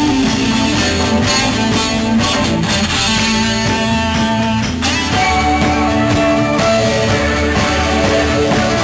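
Band music with a strummed guitar over a steady bass line, sustained melody notes changing every second or so.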